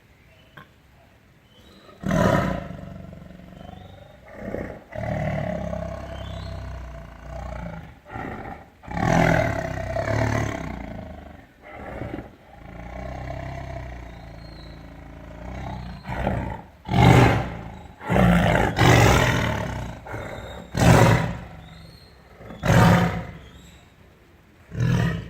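A big cat roaring repeatedly: long drawn-out roars, then a run of shorter, louder calls about every two seconds in the second half.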